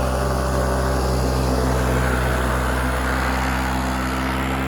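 Motor vehicle engine running steadily at a nearly constant pitch, as when cruising in a high gear.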